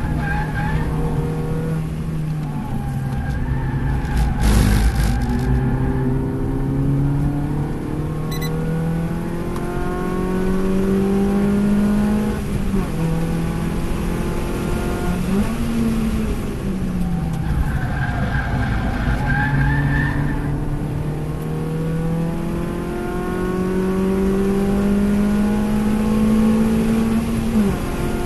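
2014 Suzuki Swift Sport's four-cylinder engine, fitted with aftermarket headers, intake and cat-back exhaust, heard from inside the cabin, pulling hard on a race circuit. Its revs climb and drop back at several gear changes, with one brief blip and fall midway, and a single sharp knock about four and a half seconds in.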